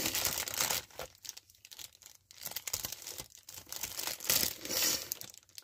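Thin plastic parts bag from a model kit crinkling and tearing as it is opened by hand, in irregular rustling spurts.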